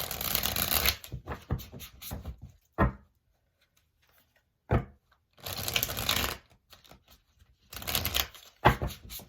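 Tarot cards being shuffled by hand in three bursts of about a second each, with a few short sharp taps and knocks between them.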